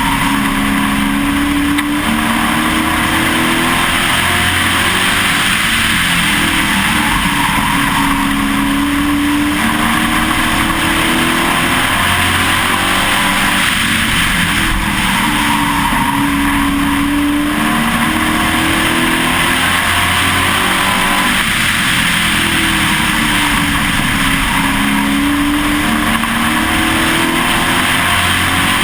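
Race truck's engine heard onboard at racing speed, its pitch climbing and then dropping in a repeating cycle about every seven seconds as the truck laps an oval track, with steady wind and road noise underneath.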